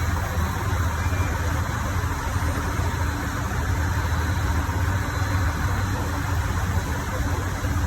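Diesel engines of a stopped limited express Hida train idling with a steady low hum.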